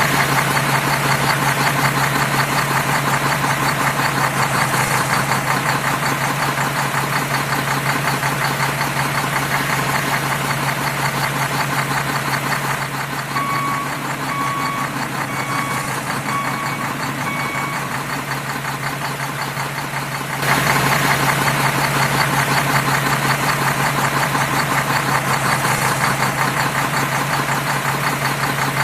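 Vehicle engine running steadily with a knocking, diesel-like rattle. About halfway through come five short, evenly spaced beeps, like a reversing alarm. The sound changes abruptly and grows louder about two-thirds of the way in.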